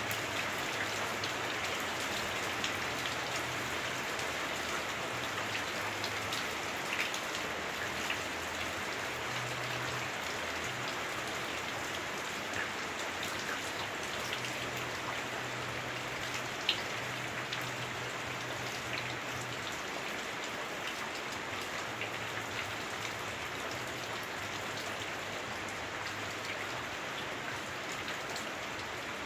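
Heavy rain on a house roof, heard from indoors: a steady, dense hiss with scattered sharper drop hits, one standing out about two-thirds of the way through.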